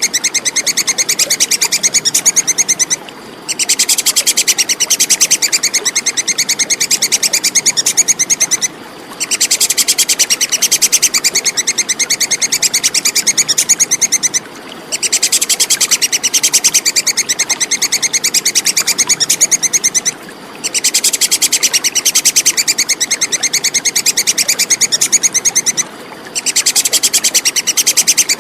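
Squirrel giving its clear, rapid, high-pitched chattering 'kekes' call in bouts of about five to six seconds, separated by brief pauses, over a steady background hiss.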